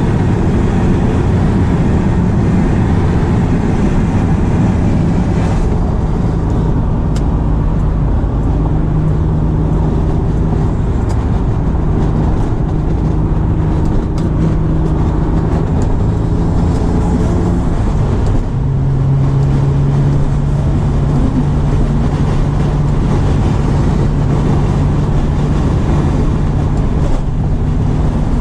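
Twin-turbocharged V6 of a 1999 Acura NSX running at a steady pace over heavy road and wind noise. About two-thirds of the way through, the engine note steps down to a lower pitch and holds steady.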